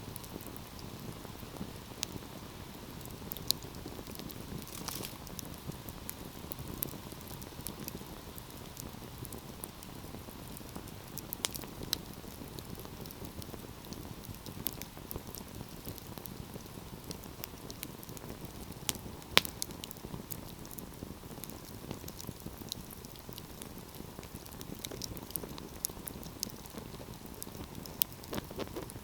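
Wood fire burning with a steady low hiss and scattered crackles and pops, the sharpest snap about two-thirds of the way through.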